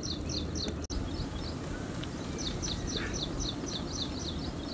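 A small bird calling with a quick run of short, high, downward-slurred notes, about four a second, which stops for about a second and then starts again, over a steady low rumble of outdoor background noise.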